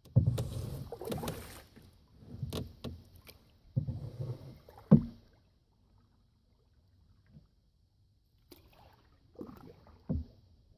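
Canoe paddle strokes: water splashing and dripping off the paddle in irregular bursts, with a few sharp knocks. A quiet stretch comes in the middle.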